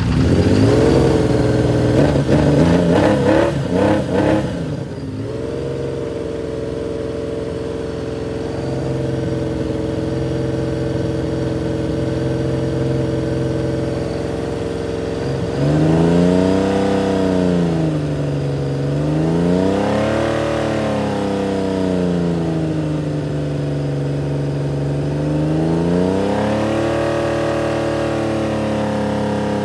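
Honda CBX1000's inline six-cylinder engine running with the fuel valve shut, burning off the last gas left in its carburettors. It runs unevenly for the first few seconds, then settles to a steady idle. The throttle is blipped up and down a few times in the second half.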